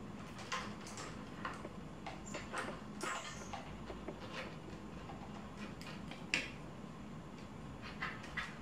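Scattered light clicks and taps of tools and small parts being handled while a bicycle's rear brake is fitted, with one sharper knock about six seconds in.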